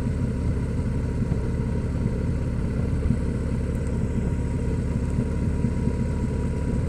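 Harley-Davidson Tri-Glide Ultra Classic trike's V-twin engine running steadily while cruising, a continuous low rumble mixed with road noise.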